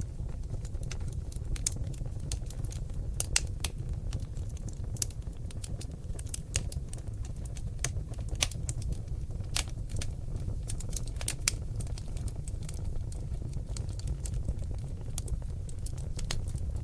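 Seasoned oak logs burning in a fireplace, crackling with irregular sharp pops and snaps over a steady low rush of flame.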